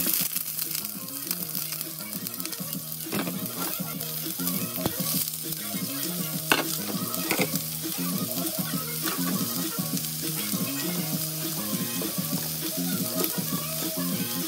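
Sliced onions and green pepper strips sizzling in hot oil in a wok, a steady frying hiss that starts as the onions hit the oil, with a few sharp knocks along the way.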